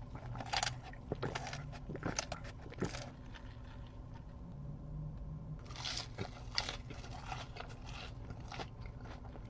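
Close-up crunching and chewing of crispy fried chicken, with crackly bites in two spells: one about half a second to three seconds in, the other around six to seven seconds in.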